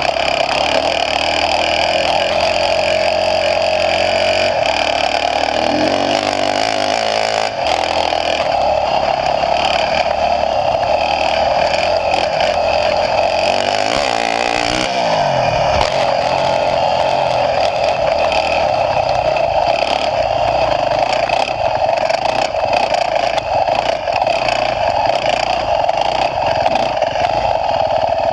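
Motocross bike engine running hard on a dirt track, loud and steady, with brief shifts in pitch about six and fourteen seconds in.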